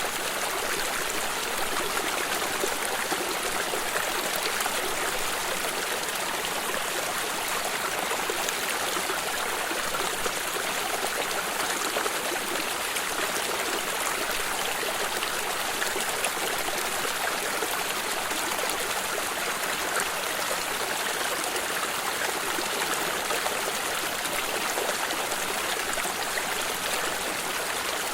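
Stream of running water flowing steadily, a continuous rush with fine trickling and splashing.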